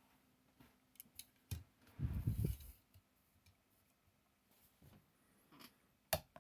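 Handling of small die-cast model cars and their plastic packaging. A few light clicks, then a short rustling clatter with low knocks about two seconds in, and a sharp click near the end.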